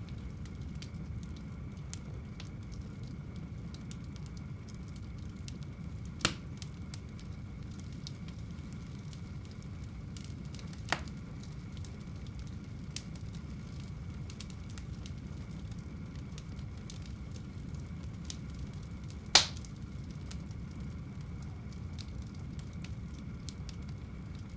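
Fire burning in a fireplace: a steady low rush of flames with scattered small crackles, and three sharper pops, the loudest about 19 seconds in.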